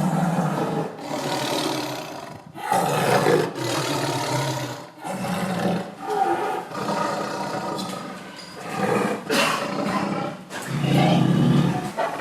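Tiger roaring again and again: about six roars of one to two seconds each, with short breaks between.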